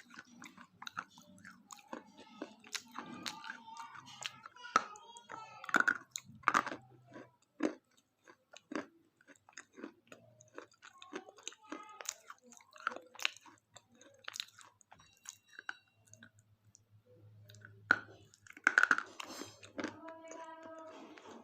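Close-up chewing and crunching of a chocolate-coated Kit Kat wafer bar. It gives irregular, sharp crisp cracks with chewing between them, and a louder burst of crunches shortly before the end.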